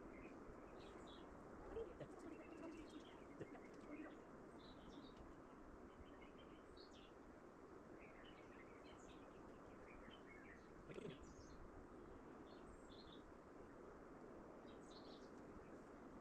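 Faint birds chirping: scattered short calls over a quiet background hiss, with a couple of soft bumps.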